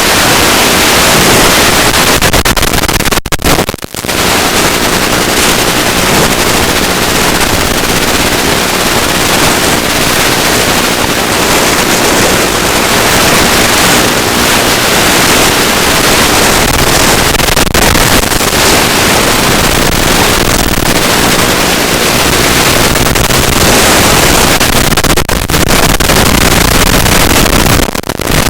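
Electric pusher motor of a ZOHD Drift FPV plane in flight, a faint steady hum buried under loud rushing wind noise. The sound cuts out briefly a few seconds in and twice near the end.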